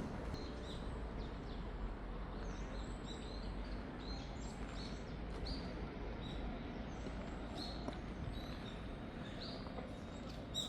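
Small birds chirping: short high calls repeating about every second, over a steady low background rumble.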